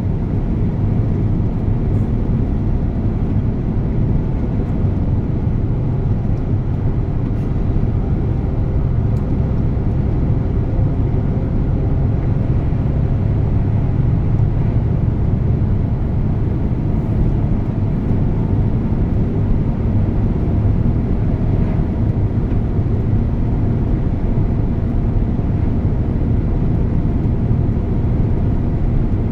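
DAF truck's diesel engine running steadily as the truck drives, a continuous low drone with road noise that holds the same level throughout.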